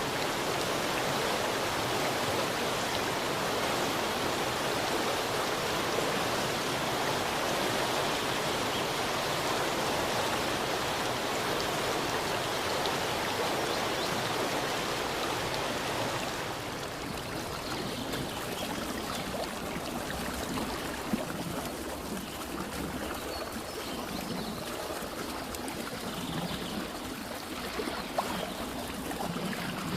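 Stream water running as a steady rush. A little past halfway it changes to a quieter, softer flow, with a couple of faint clicks.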